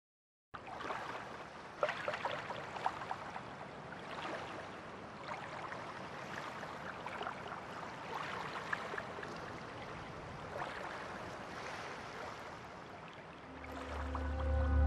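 Shallow stream running over stones: a steady rush of water with scattered small clicks and gurgles, starting suddenly about half a second in. Music with a deep bass fades in near the end.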